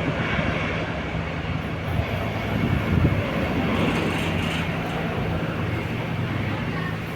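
Jet engine noise of a departing Airbus A320-214, a steady rumble with a low hum that slowly fades.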